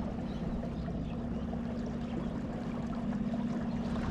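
Small boat's motor running with a steady hum, water washing along the hull.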